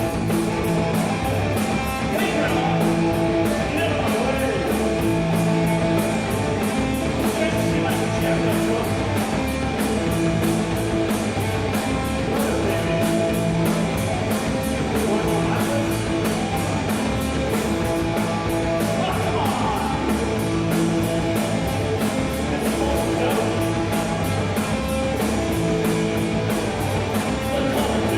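Punk rock band playing live: electric guitar, bass guitar and drum kit, with drum hits repeating at an even, fast beat.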